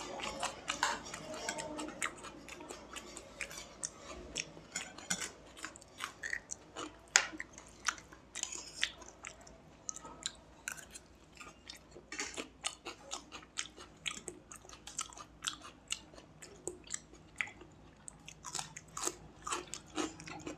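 Close-miked chewing of pulao: wet mouth clicks and smacks at an uneven pace, several a second.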